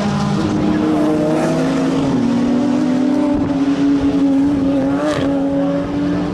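Sport compact race car engine running steadily under load, its pitch slowly climbing, with a brief sharp crack about five seconds in.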